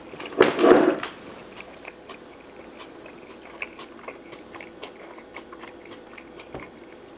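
People chewing mouthfuls of fish tacos in lightly crisped corn tortillas: soft crunching and mouth clicks, with one louder crunchy burst about half a second in.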